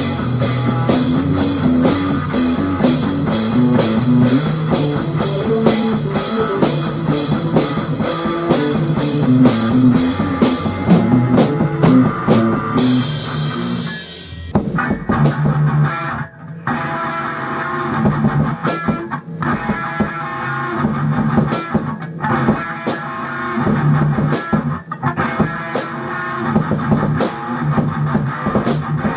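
Rock music with a drum kit and guitar. The first half has fast, even cymbal strokes; a brief crash-like wash and a dip about halfway through lead into a different, sparser section.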